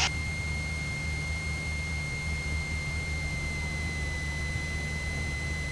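Cessna 172 cockpit sound through the intercom during the landing approach: the engine's steady low drone with a continuous high-pitched whine over it, the whine dipping slightly in pitch about two-thirds of the way through.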